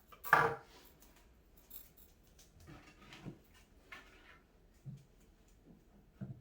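Faint scattered rustles, clicks and light knocks of cat tower parts being handled during assembly, with one louder burst just after the start.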